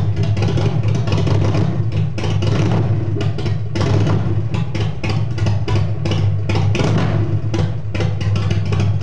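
2004 Buell XB12S 1203 cc air-cooled V-twin running steadily through a Jardine exhaust with no muffler, the open pipe giving a loud, uneven train of pulses over a deep steady note.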